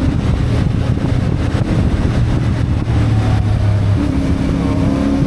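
CFMoto 450MT's parallel-twin engine running under way on the road, its note stepping up to a higher steady pitch about four seconds in.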